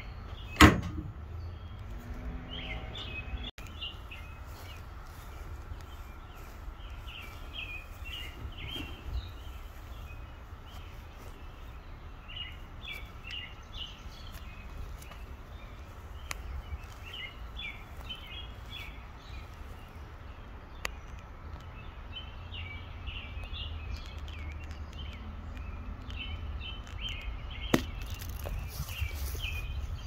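Small birds chirping in short repeated bursts over a low steady rumble. A single loud sharp thump about half a second in, and a smaller click near the end.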